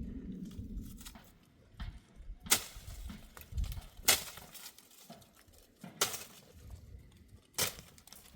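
Four sharp knocks, one about every one and a half to two seconds, over a low rumble.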